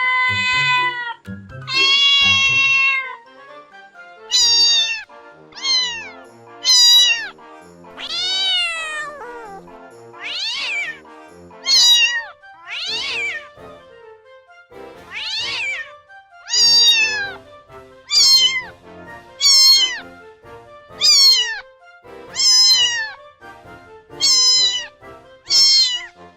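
Domestic cat meowing over and over: two long, steady-pitched meows at the start, then about a dozen shorter meows, most falling in pitch, roughly one a second. Faint background music plays beneath.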